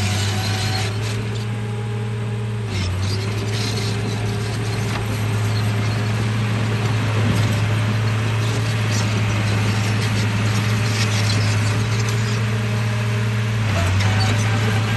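RC bulldozer's drive motors and gearing running with mechanical clatter over a steady low hum, which dips briefly about three seconds in and again near the end.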